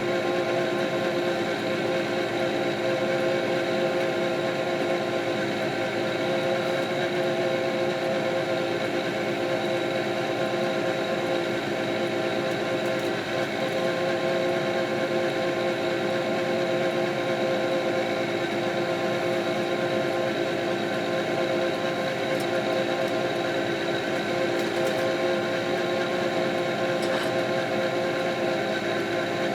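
Kioti RX7320 diesel tractor running steadily under work, a constant drone with several fixed whining tones over it that never change in pitch.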